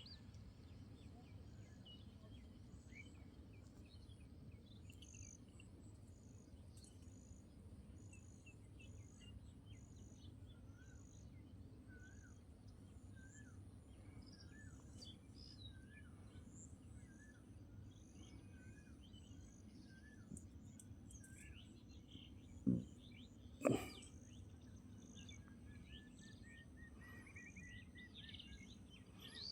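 Faint rural ambience of several small birds chirping and calling, with thin steady high tones and a low background rumble. Two loud short sounds come about a second apart a little past two-thirds of the way through, and near the end a bird gives a quickening run of notes that rises in pitch.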